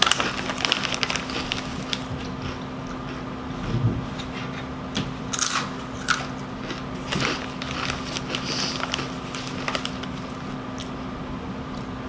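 Close-miked crunching and chewing of Doritos Dinamita rolled tortilla chips: a few sharp crunches spread several seconds apart, with quieter chewing between them.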